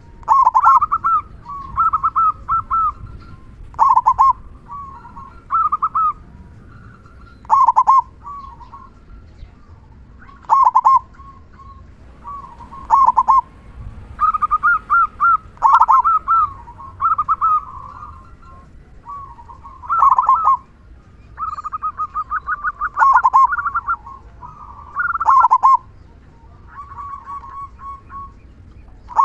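Local zebra dove (perkutut) singing its cooing song over and over, a phrase every two to three seconds. Each phrase is a quick rolling series of notes ending in the big, deep 'kung' note. A faster stuttering run of notes comes about three quarters of the way through.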